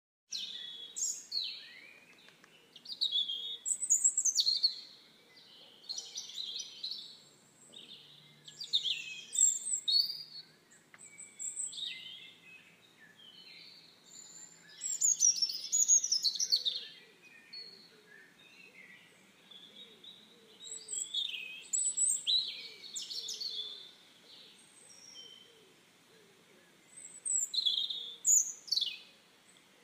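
Small songbirds singing, with short, quick, varied phrases every two or three seconds over a faint outdoor background.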